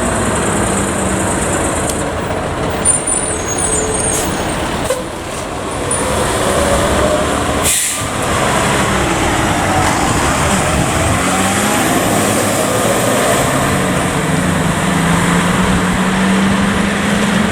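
Heavy fire truck running close by, with a short sharp hiss about eight seconds in.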